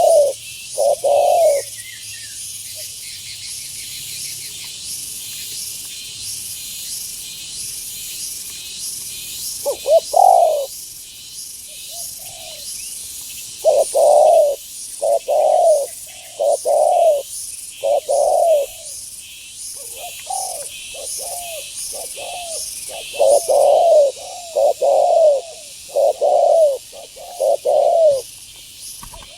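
Spotted dove (tekukur) cooing in repeated phrases: a couple of coos at the start, a pause, then a long run of coos about one a second. Under it runs a steady, pulsing high insect chorus.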